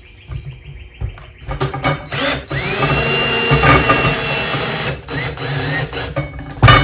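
Power drill driving screws: a few short bursts, then a run of about three seconds with the motor whine rising as it speeds up, then more short bursts, with a sharp knock near the end.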